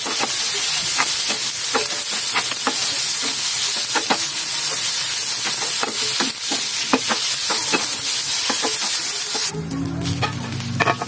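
Sliced mushrooms sizzling as they sauté in a ridged grill pan, with a spatula scraping and clicking against the pan as they are stirred. Near the end the sizzle drops away as the pan is lifted and tipped.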